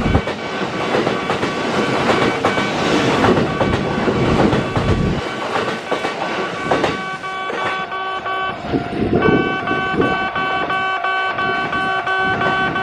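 Train running through the station, wheels clattering over the rail joints. About seven seconds in, background music with steady held notes fades in over the fading train noise.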